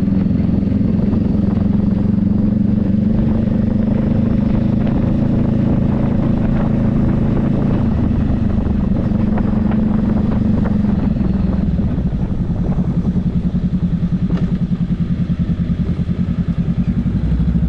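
Motorcycle engine running at steady revs, then dropping about two-thirds of the way through to slow, pulsing low revs as the bike slows.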